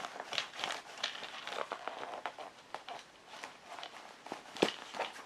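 A Flyknit training shoe being pressed and bent by hand: irregular soft rustles, creaks and clicks from the knit upper and foam sole. There is one sharper knock a little before the end.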